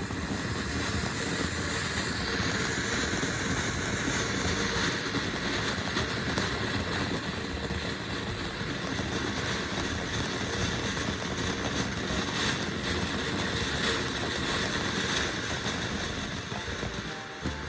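Ground fountain firework spraying with a steady hiss and a constant crackle, easing off near the end.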